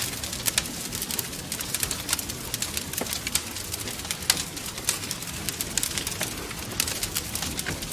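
Wood fire crackling in a fireplace: irregular sharp pops and snaps over a steady hiss and low rumble of the burning logs.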